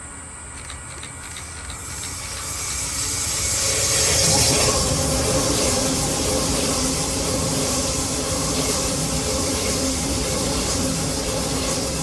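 Train approaching, growing louder over about four seconds, then passing close by with steady wheel-on-rail and running noise.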